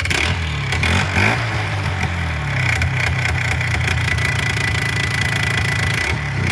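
Polaris Trail Boss 350L ATV engine running, its pitch wavering over the first couple of seconds before settling into a steady idle.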